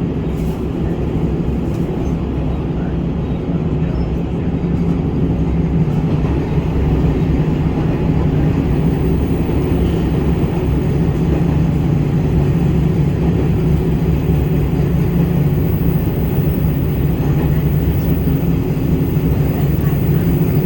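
Aizu Railway AT-751 diesel railcar underway, heard from inside the car: a steady low drone of its diesel engine and running gear, getting a little louder about six seconds in.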